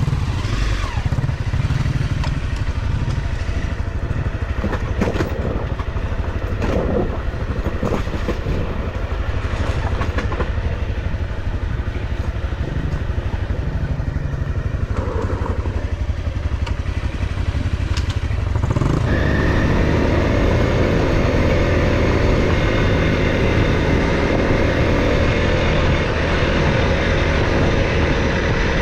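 Off-road motorcycle engine running while being ridden over rough ground, with scattered short knocks. About two-thirds of the way through the engine gets clearly louder and stays that way.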